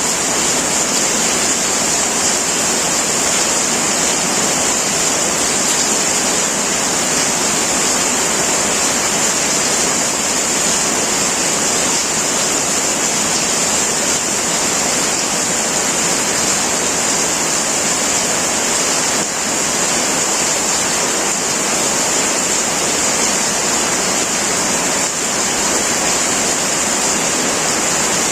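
Heavy rain falling steadily on a tin roof: a dense, even hiss with no breaks.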